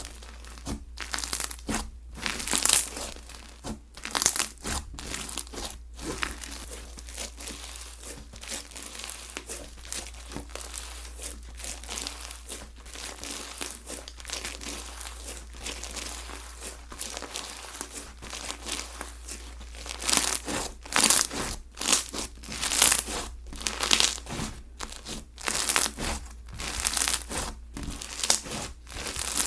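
Hands squeezing and stretching slime, making a dense run of irregular crackling clicks and pops that grows busier and louder about two-thirds of the way through.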